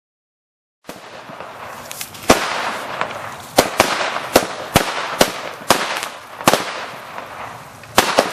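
Fireworks going off: after about a second of silence, a steady crackling hiss starts, with sharp bangs every half second or so, two of the loudest near the end.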